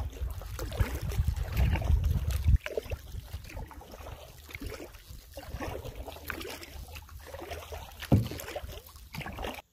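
Canoe being paddled: paddle strokes and water splashing and dripping against the hull, with scattered small knocks. A low rumble, like wind on the microphone, stops abruptly after about two and a half seconds, and everything cuts off suddenly just before the end.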